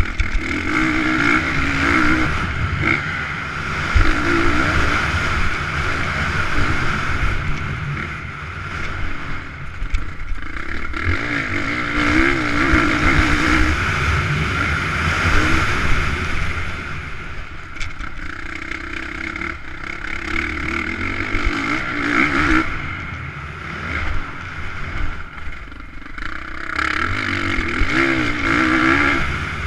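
Motocross bikes racing, their engines revving up and down through the gears, growing louder and fading several times as riders pass.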